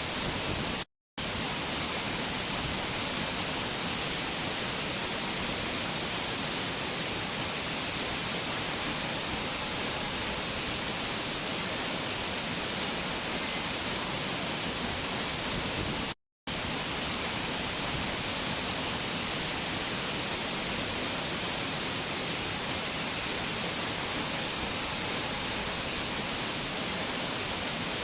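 Waterfall: a steady, even rush of falling water, cutting out to silence for a split second twice, about a second in and again about halfway through.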